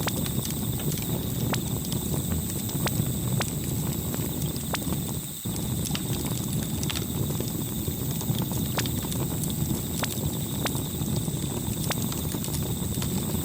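Campfire crackling: irregular sharp pops and snaps over a steady low rumble of burning wood, with a brief drop-out about five seconds in.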